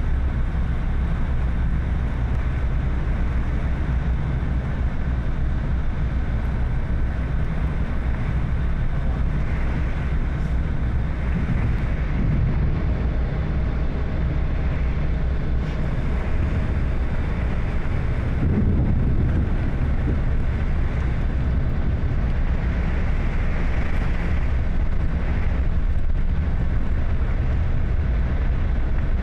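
A vehicle driving in heavy rain: a steady low rumble of road and engine noise with a fainter hiss of rain and spray over it.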